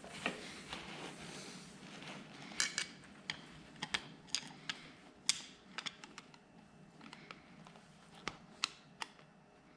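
Irregular light clicks and taps of a hand pick and small metal parts being worked at the piston-pin circlips of a motorcycle engine, with some rustling in the first couple of seconds.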